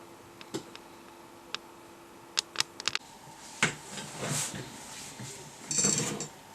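Scattered sharp clicks and rustling handling noises. A faint steady hum stops about three seconds in and is replaced by a fainter, higher steady tone.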